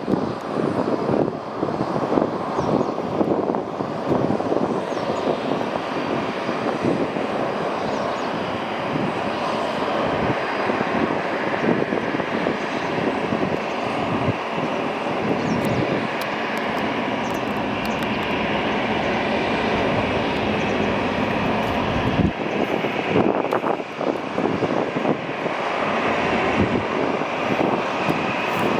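Airbus A320's two CFM56-5B jet engines running, a loud steady jet noise that holds level throughout.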